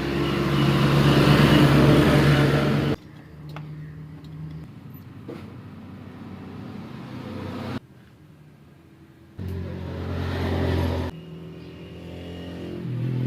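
Honda CD70 motorcycle's small single-cylinder four-stroke engine running and being revved, heard in several short cuts. The first three seconds are the loudest burst, with another revved burst a little past the middle and the engine rising again near the end.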